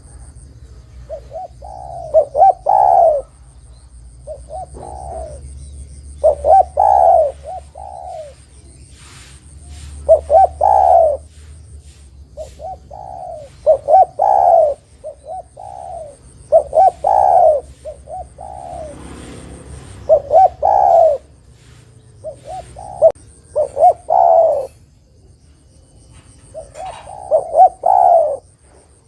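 Spotted dove (derkuku, tekukur) cooing. Repeated phrases of several quick coos, one phrase every few seconds with short pauses between.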